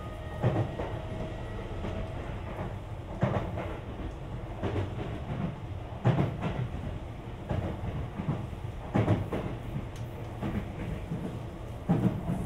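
Sagami Railway (Sotetsu) 20000 series electric train heard from inside the car while running between stations: a steady rumble of wheels on rail, with a sharp clack from the rail joints about every one and a half seconds.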